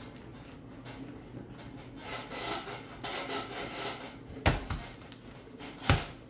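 Homemade slime being rubbed and kneaded by hand, then two sharp thuds about a second and a half apart near the end as a ball of slime bounces on a hard surface.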